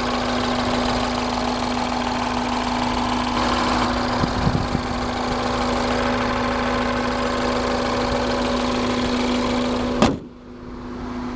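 2013 Mini Cooper S Paceman's 1.6-litre turbocharged direct-injected four-cylinder engine idling steadily with the hood open, with an even hum and a steady drone. About ten seconds in, the engine sound cuts off abruptly and a quieter sound follows.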